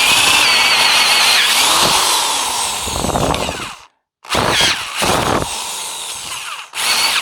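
Power drill boring out a stripped bolt hole in an aluminum engine mount with the Helicoil kit's drill bit. It runs steadily for nearly four seconds, stops, then makes two shorter runs.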